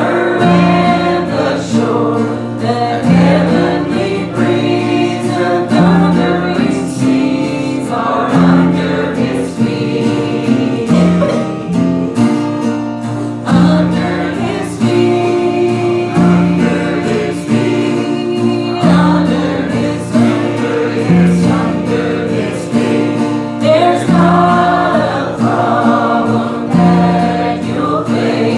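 Church congregation singing a gospel hymn together, with instrumental accompaniment and a bass line stepping from note to note.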